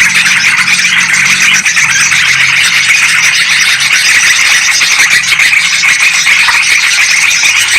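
Dense, unbroken chatter of yellow-vented bulbuls and sooty-headed bulbuls calling over one another, a loud bird-lure recording.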